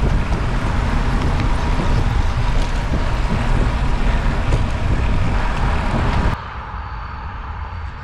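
Wind rushing over the microphone with a steady low road rumble while moving along the road. It cuts off abruptly about six seconds in, giving way to a much quieter outdoor background.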